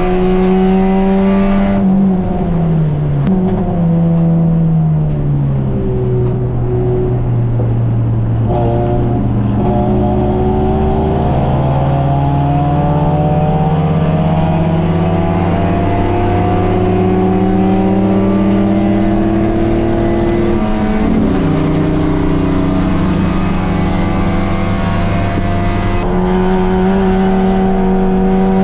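Race car engine heard from inside the cockpit, running hard on track. Its pitch falls about two to four seconds in, then climbs slowly over long stretches, drops again around twenty seconds in and steps up near the end.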